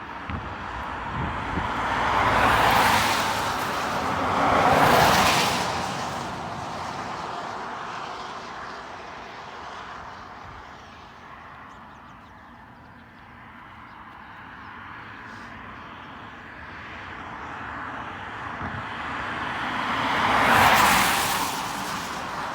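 Vehicles passing close by: two pass-bys in quick succession in the first few seconds and a third near the end. Each swells and fades over about two seconds, over a steady background hum.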